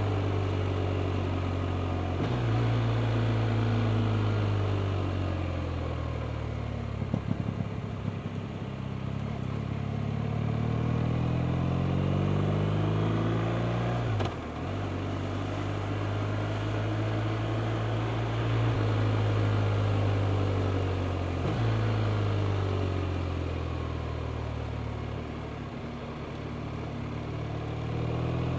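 BMW R 1250 RT's 1254 cc boxer twin running under way, its pitch rising and falling with the throttle and stepping at gear changes about 2, 14 and 21 seconds in. There is a short burst of knocks about seven seconds in.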